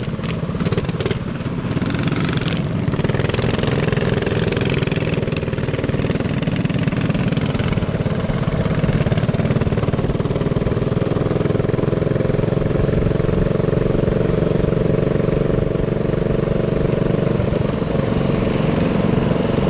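Minibike's small engine running steadily under way, its pitch holding fairly even.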